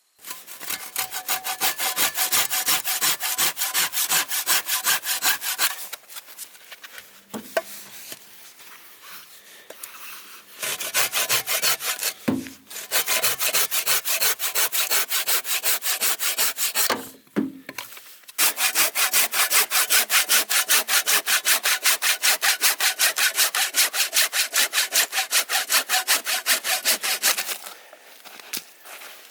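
Hand saw cutting wood in fast, even back-and-forth strokes, in several spells with short pauses between them.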